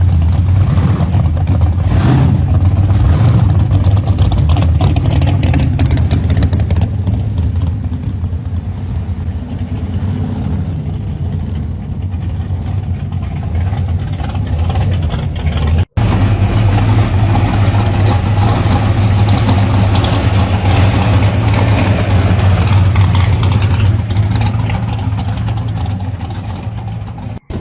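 Loud muscle car exhausts as the cars drive past, with a rev rising in pitch about two seconds in. A sudden cut about sixteen seconds in switches to another car's deep, steady exhaust note, which fades a little near the end.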